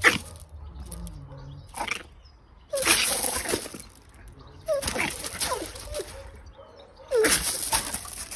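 Small puppy yapping in about three short bursts of high, falling yips, with scuffling on gravel.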